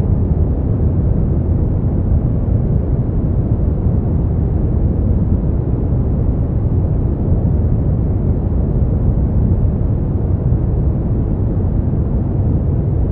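Steady brown noise: an even, deep rushing hiss, loudest in the bass and fading toward the treble, unchanging throughout.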